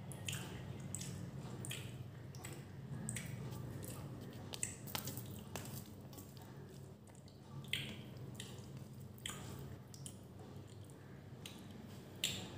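Eating by hand: wet smacks and clicks of chewing rice and beef curry, with squishy sounds of fingers mixing rice into gravy, coming irregularly, with one sharper smack near the end.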